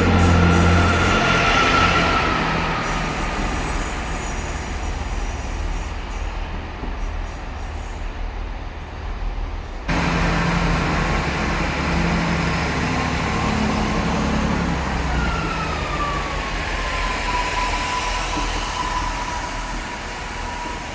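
A train at the station, its engine or motors humming low, with a high thin whine that slowly slides down in pitch. The sound cuts off abruptly about ten seconds in and starts again.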